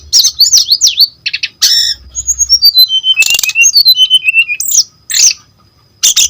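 Brown-chested jungle flycatcher singing a fast, varied song of sweeping whistled notes. It includes a long descending run of notes and a couple of short harsh buzzy notes, with short pauses near the end.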